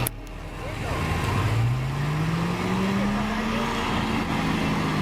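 A vehicle engine pulling harder: its pitch rises steadily over about two seconds, then holds at a steady higher note. There is a sharp click just at the start.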